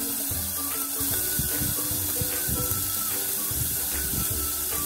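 Chopped onion and ginger sizzling in hot oil in a pan, a steady hiss, under background music.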